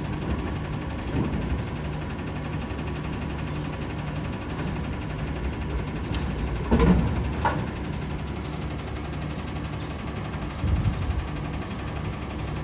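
Peterbilt 520 front-loader garbage truck's engine idling steadily, with a brief sharp sound about seven seconds in and a couple of low thumps near the end.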